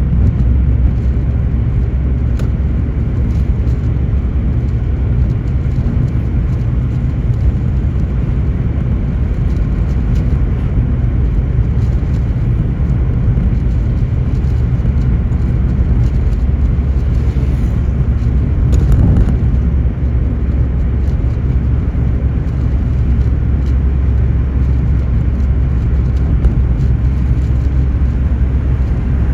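Car driving along, with steady road and engine noise dominated by a deep rumble. A brief swell in the noise comes about eighteen seconds in.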